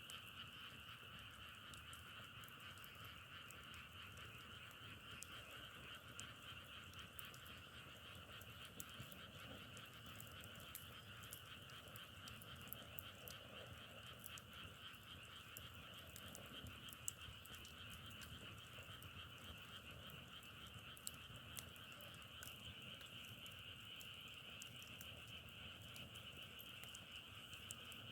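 A faint, steady chorus of many frogs calling together, with scattered faint clicks.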